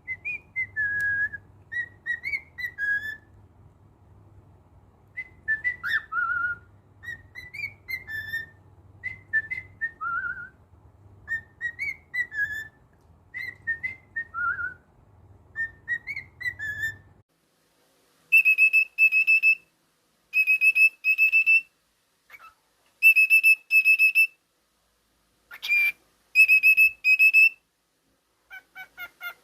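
Cockatiel whistling a tune in short gliding phrases. After a cut it whistles a run of short, flat, high notes in pairs.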